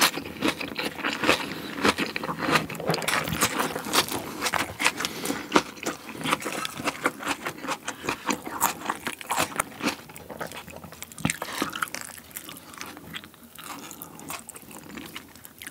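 Close-up crunching and chewing of a crisp raw napa cabbage leaf, many sharp crunches in quick succession. The crunching grows quieter and sparser over the last few seconds.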